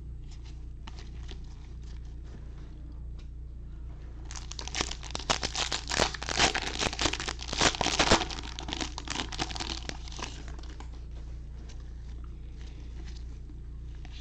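Foil trading-card pack wrapper crinkling and tearing in a burst of about six seconds, loudest midway, with faint card-handling clicks before and after.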